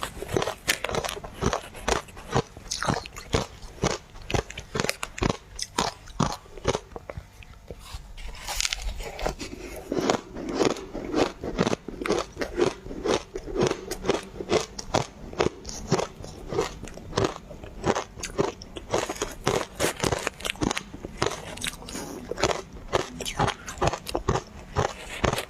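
A person biting and chewing ice, with many sharp crunches in quick succession and no break.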